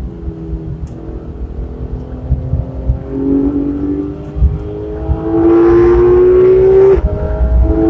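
Porsche 911 GT3 RS (991) flat-six heard from inside the cabin, first on part throttle through a corner, then pulling hard with its note climbing steadily. About seven seconds in it drops suddenly for a quick upshift, then climbs again, over a steady low rumble of tyres and road.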